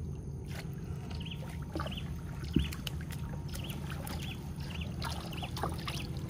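Steady low rumble with a small bird chirping over it again and again, short repeated calls, and one sharp knock about two and a half seconds in.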